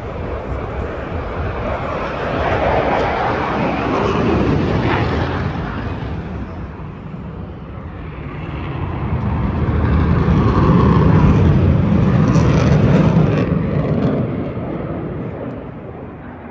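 Jet aircraft flying over, a loud roar with deep rumble that swells and fades twice, the second pass louder, peaking around eleven to thirteen seconds in.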